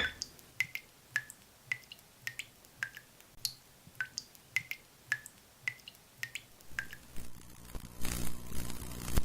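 Water dripping from a leaking tap: single drops plinking about twice a second. A low hum and hiss come in over the last couple of seconds.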